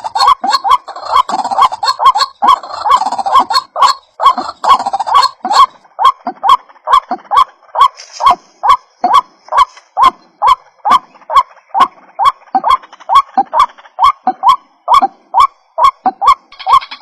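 White-breasted waterhen (ruak-ruak) calls in a lure recording, a fast, unbroken run of short, hoarse notes at about three a second.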